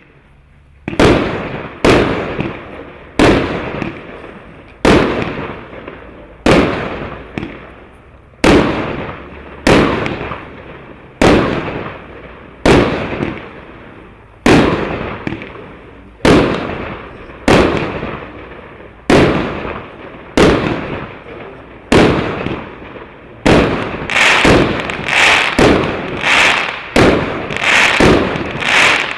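A 25-shot, 1-inch consumer fireworks cake firing. Sharp shots come about one every second or so, each followed by a fading tail. Over the last several seconds they speed up to a rapid finale of about two shots a second.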